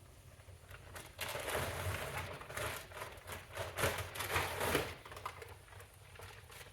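Rustling and crinkling of packaging being handled, with scattered light clicks and knocks, busiest from about a second in until nearly five seconds.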